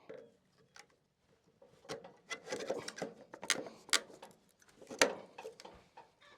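A string of irregular clicks and knocks, like gear being handled, busiest in the middle, with the loudest sharp knock about five seconds in.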